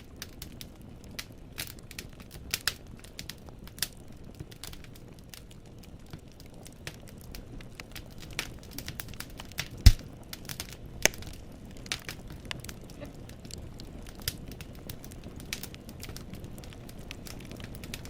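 Wood fire in a fireplace crackling: burning firewood pops and snaps irregularly over a low, steady rumble of flame, with one louder pop about two-thirds of the way through.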